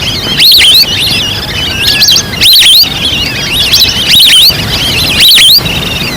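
Recorded wild duck lure call: a flock's high whistled calls chattering constantly, with a loud whistle peaking about every second and a half.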